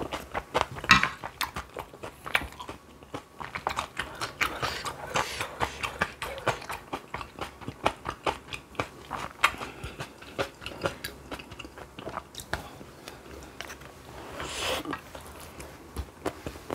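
Close-miked mukbang eating: wet chewing and biting, with irregular smacking clicks several times a second and a few louder bites.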